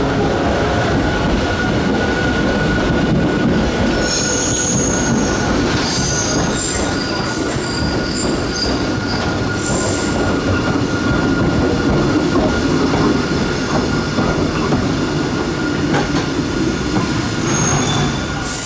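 Hakone Tozan Railway Moha 1 type electric car (100 series) rolling along the platform, with a loud steady rumble. High wheel squeals come in from about 4 seconds in and again near the end, then the sound cuts off suddenly.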